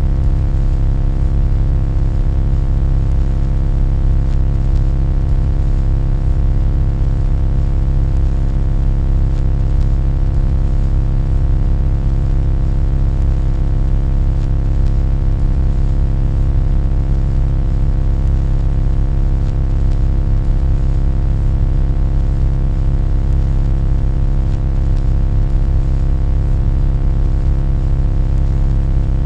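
Loud, steady low hum or drone, deep and rumbling, with many fixed overtones above it. It does not change in pitch or level throughout.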